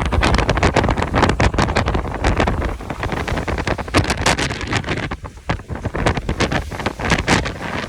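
Strong, gusty Santa Ana wind blasting the microphone: loud rushing noise with heavy low buffeting, surging up and down in quick gusts.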